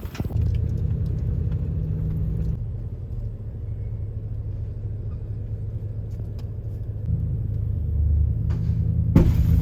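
Steady low hum of a car's engine and road noise, heard from inside a moving vehicle; it eases off about two and a half seconds in and picks up again near the end. A brief clatter sounds just before the end.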